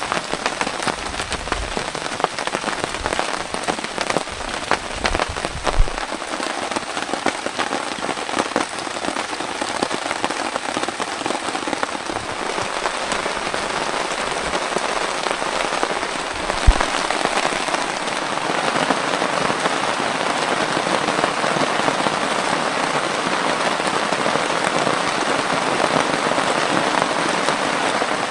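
Heavy rain falling steadily, a dense patter of drops on a nearby surface, with two sharper knocks at about six and seventeen seconds in.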